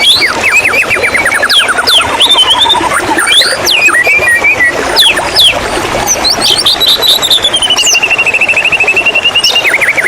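White-rumped shama singing a fast, varied song. It opens with a rapid run of notes sliding down in pitch, moves to scattered sharp whistles, and from about six seconds in gives a long rapid trill that drifts slowly lower.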